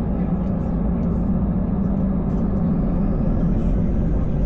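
Airbus A320 engines and airflow heard inside the passenger cabin: a steady, loud drone at high thrust during take-off or early climb, growing slightly louder near the end.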